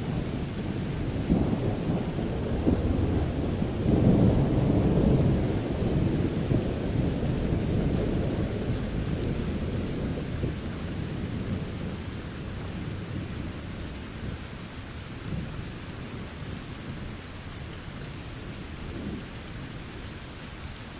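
Rolling thunder rumbling over steady rain. The rumble swells to its loudest about four seconds in, then slowly dies away while the rain hiss carries on.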